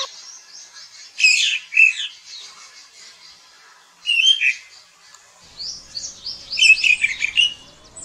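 Bird calling in three bouts of quick, high chirping notes, the last bout the longest.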